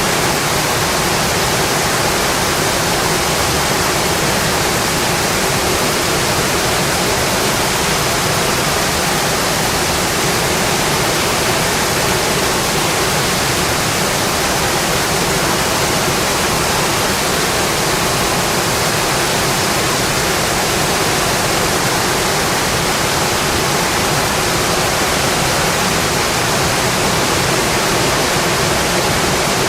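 Steady rainfall, an even hiss of rain without any single drops or thunder standing out.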